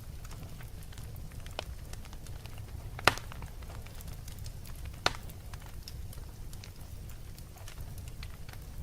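Wood fire crackling: a steady low rumble with scattered small snaps, and two sharper pops about three seconds in and two seconds later.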